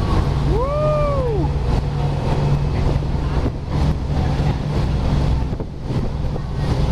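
River express boat's engine droning steadily under rushing water and wind noise. About half a second in, a single pitched call rises and falls over roughly a second.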